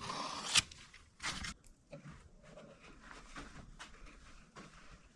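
A scraper scraping off the last drips of curing epoxy from a countertop edge: a few short, faint scrapes with a sharp click about half a second in.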